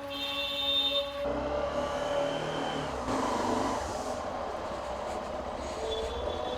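Motor vehicle traffic rumbling past, after a brief tonal sound in the first second.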